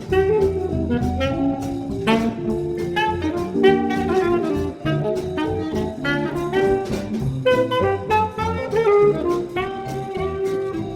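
Small jazz combo playing a swinging bebop tune: a fast horn melody line, likely saxophone, over bass and drums with steady cymbal strikes.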